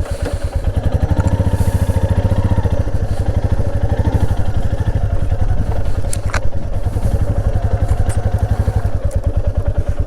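Motorcycle engine running steadily, an even train of rapid firing pulses, with one sharp click about six seconds in.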